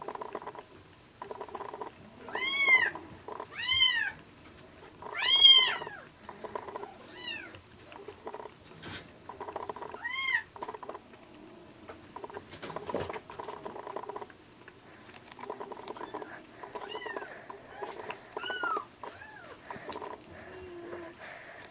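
Young kittens mewing, about eight high mews that rise and fall in pitch, loudest and closest together in the first six seconds, over constant background noise.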